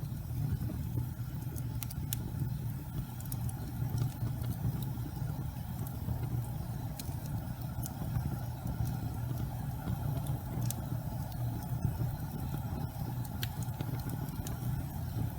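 Gas fireplace flames burning with a steady low rumble, with scattered faint crackles and ticks.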